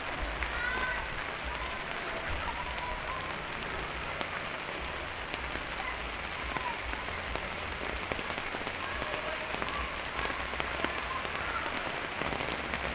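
Steady rain falling, with many small drop ticks on a hard surface over an even wash of rain noise.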